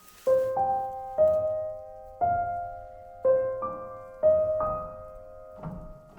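Slow, soft solo piano music: single notes and pairs of notes struck about once a second, each left to ring and fade.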